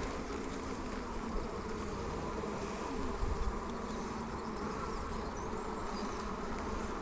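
Honeybees buzzing steadily around an open hive.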